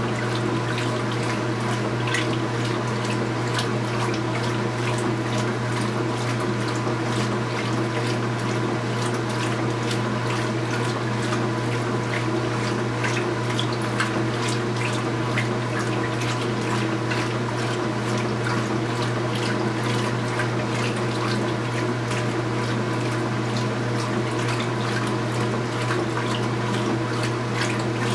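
Speed Queen top-load washing machine running: a steady low hum with water sloshing and splashing in the tub.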